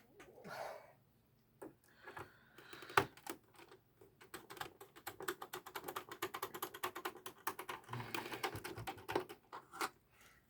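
Screwdriver turning out a long Torx T20 case screw on an original Xbox: a few scattered clicks, one sharper one about three seconds in, then a long run of rapid, typing-like clicking that stops shortly before the end.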